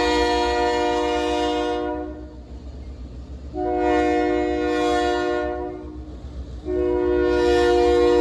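Diesel locomotive air horn sounding a chord in long blasts: one ending about two seconds in, another of about two seconds, and a third starting near the end, over the low rumble of the passing train.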